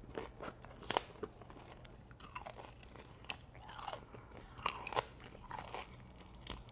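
A person biting and chewing crunchy fried Wingstop food close to the microphone, with irregular sharp crunches.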